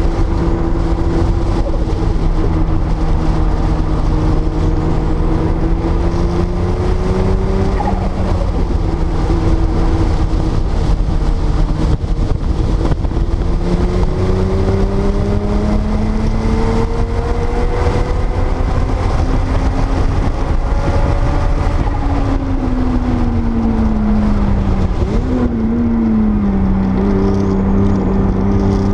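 Air-cooled turbocharged flat-six of a 1979 Porsche 930 Turbo under way on a race track, over heavy wind and road noise. The engine note climbs as the car accelerates, drops sharply at a gear change about eight seconds in, climbs again through the middle, then falls away as the car slows and dips once more near the end before picking up.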